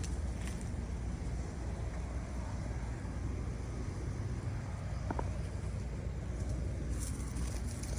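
Steady low outdoor rumble, with a brief faint tone about five seconds in and a few light clicks near the end.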